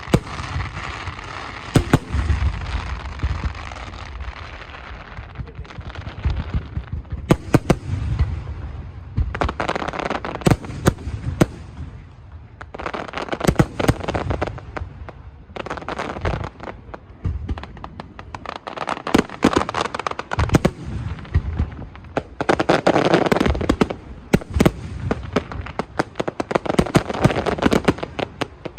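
Fireworks display: aerial shells going off in quick succession, with many sharp bangs over stretches of dense crackling.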